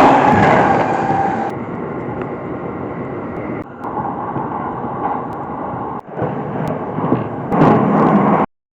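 Train running on the rails, a steady rumbling noise heard in several short clips joined together, with abrupt changes about one and a half and six seconds in; it cuts off suddenly near the end.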